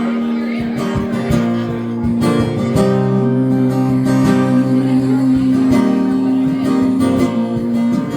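Strummed acoustic guitar playing the instrumental ending of a live country song, with long held notes over the chords.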